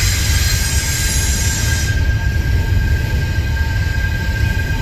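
Double-stack intermodal well cars rolling past on the track: a steady low rumble of wheels on rail. A thin, steady high-pitched whine runs over it, and a hiss fades out about two seconds in.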